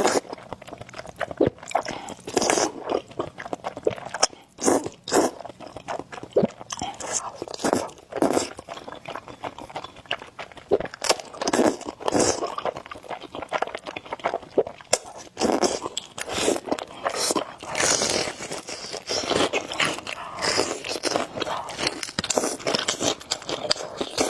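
Close-miked mukbang eating sounds: steady chewing and biting, with many irregular crunches and mouth noises.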